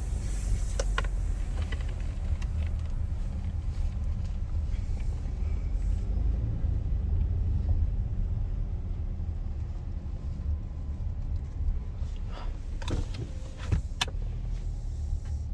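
A car's steady low engine and road rumble, heard from inside the cabin as it moves slowly, with a few short clicks about a second in and again near the end.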